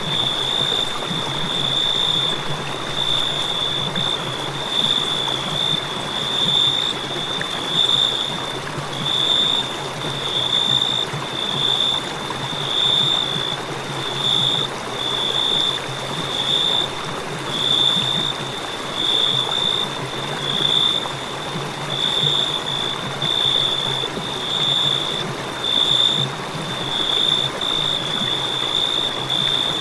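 Crickets chirping: a high, shrill note that swells in pulses about once a second, over a steady hiss.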